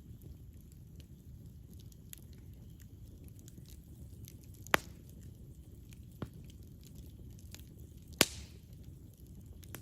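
Campfire burning with a low steady rumble and scattered faint crackles, broken by two loud sharp pops, one about halfway through and one near the end, with a smaller pop between them.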